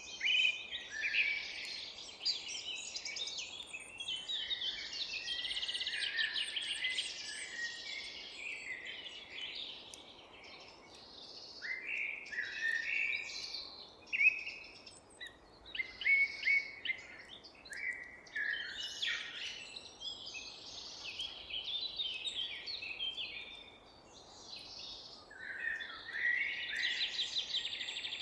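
Several songbirds singing and chirping at once: overlapping trills, short rising and falling whistles and rapid chips, with a faint steady background hiss.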